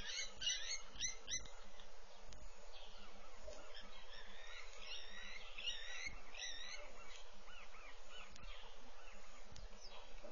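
Wild birds chirping and calling in quick, varied notes, busiest in the first second or so and again around the middle.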